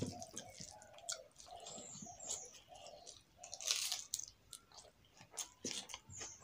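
Close-up wet chewing and lip-smacking of a mouthful of rice and vegetable curry eaten by hand, with many short clicks and smacks. About four seconds in there is a louder burst as another handful goes into the mouth.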